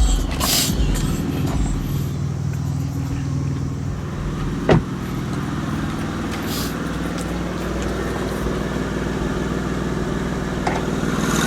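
A Honda Accord's 3.0-litre V6 idling steadily, with one sharp clunk about five seconds in as the hood latch is released and the hood opened.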